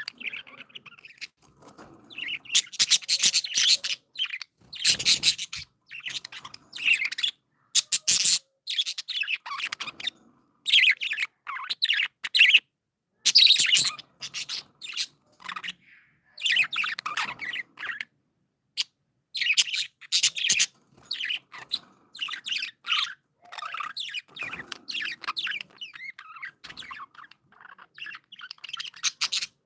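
Pet budgerigars chirping and chattering in quick runs of high chirps, broken by short pauses.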